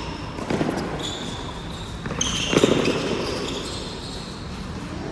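Indoor badminton doubles rally: sports shoes squeaking on the court floor, with two sharp hits, about half a second and about two and a half seconds in.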